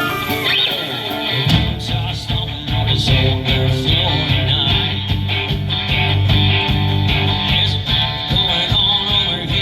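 Live rock-and-roll band playing, guitar over bass and drums; the bass and the beat come in about a second and a half in.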